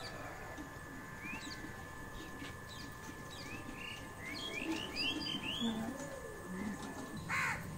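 Small birds chirping: a run of short, quick rising chirps, with a brief louder squeak near the end, over a faint steady high tone.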